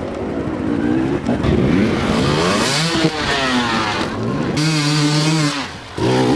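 Enduro dirt bike engine revving up and down over and over, its pitch climbing and falling with the throttle. It holds a steady high rev for about a second midway, then drops briefly near the end.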